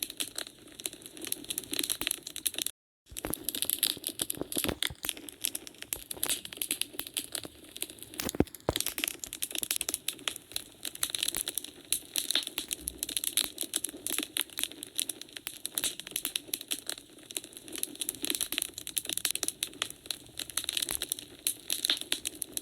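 Wood fire crackling, with dense, irregular snaps and pops of burning logs and one sharper pop about eight seconds in. The sound cuts out completely for a fraction of a second about three seconds in.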